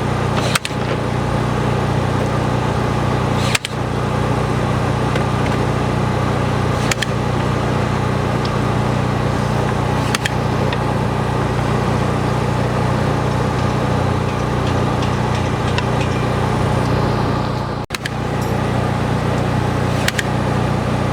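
Construction machinery engine running steadily at a loud, even level, with a deep hum and a few brief clicks and knocks scattered through.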